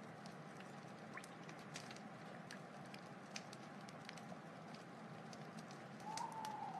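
Wood fire crackling: scattered sharp pops and snaps over a steady hiss, with a brief whistling tone near the end.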